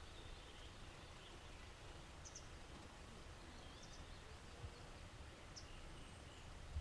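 Quiet outdoor ambience with a low rumble and a few faint, short, high bird chirps spread through it.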